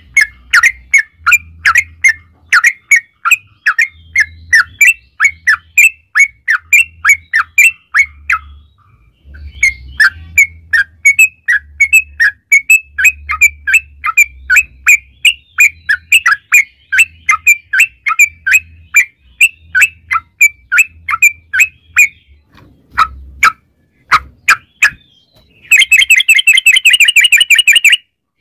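Yellow-vented bulbul (trucukan) singing a long string of short, rapid notes, several a second, with a couple of brief pauses. Near the end it switches to a faster, denser chattering trill.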